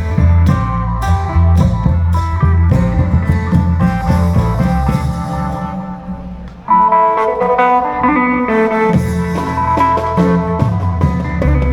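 Isan klong yao long-drum band music: drums beat a steady rhythm under a khaen-style melody. About halfway through, the drums drop out and the music fades briefly, then the melody comes back in sharply and the drums rejoin a couple of seconds later.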